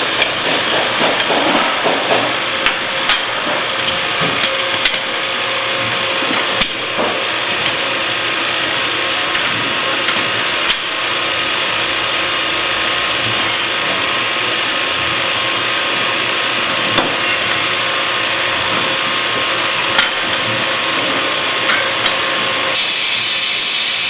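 Hydraulic power unit running steadily for a chain field riveter, with scattered sharp metal clicks and knocks as the tool is fitted and worked.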